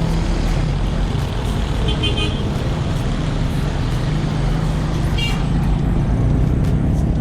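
Traffic noise heard while cycling along a city road: motor vehicle engines running close by under a steady rush of wind and road noise, with two brief high-pitched toots about two and five seconds in.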